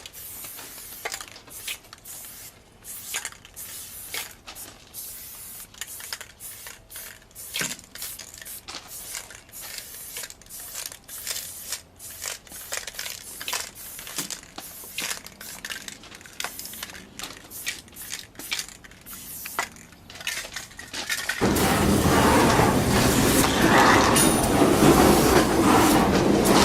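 Aerosol spray-paint cans hissing in many short, irregular bursts. About 21 seconds in, a train starts passing, with a loud steady rumble and clatter that covers everything else.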